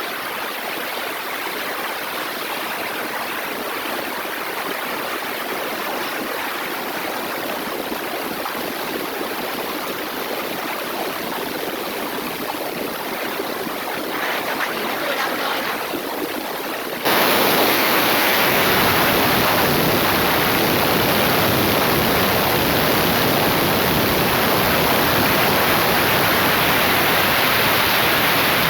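Heavy rain pouring down in sheets, a steady rush of falling water. Partway through it abruptly becomes louder and fuller.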